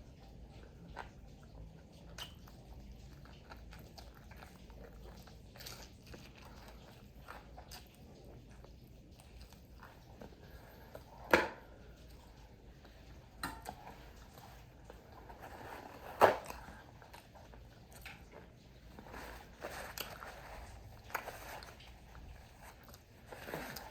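Close-up chewing and biting of crispy fried food, with scattered small crunches and mouth clicks. Two much louder sharp sounds stand out, about 11 and 16 seconds in.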